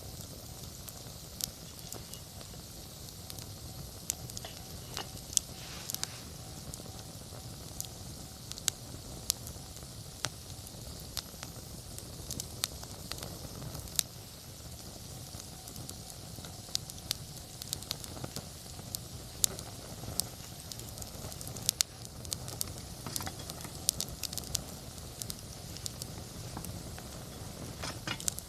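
Wood campfire burning: a steady hiss with sharp crackles and pops scattered irregularly throughout.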